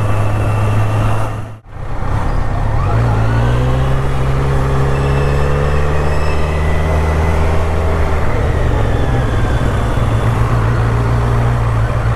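Motorcycle engine running under way with wind noise; the engine note rises as the bike accelerates about three seconds in, then holds steady. The sound cuts out briefly about a second and a half in.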